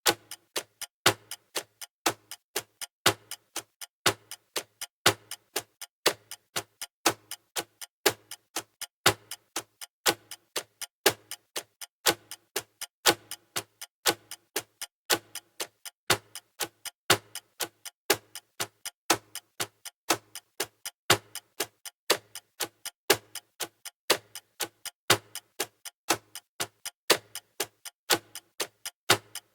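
Countdown-timer ticking sound effect: sharp clock-like ticks repeating at a fast, steady rhythm.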